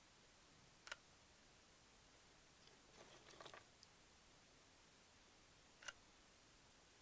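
Near silence over a faint steady hiss, broken by two short sharp clicks about five seconds apart and a brief faint crackle between them.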